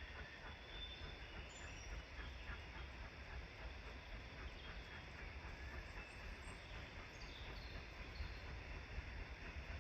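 Faint outdoor ambience: a steady low rumble of wind on the microphone, with a few short, high bird chirps.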